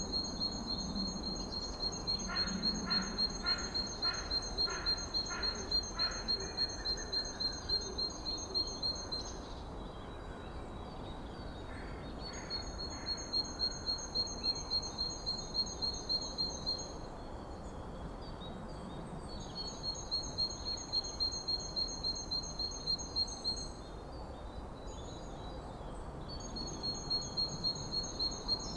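A small bird calling: a fast, even series of high, thin notes, about four a second, in several bouts of a few seconds each, the first and longest lasting about nine seconds.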